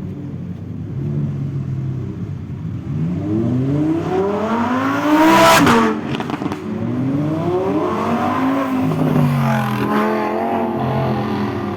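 Lamborghini supercars accelerating past one after another, each engine note climbing in pitch as it revs up. The loudest and closest car passes about five and a half seconds in, and its note drops quickly right after.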